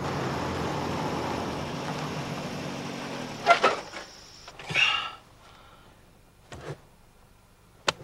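A car's running noise fading away over the first three and a half seconds as the car breaks down after its warning light came on. Then a sharp knock, a short brighter sound about a second later, and two faint clicks.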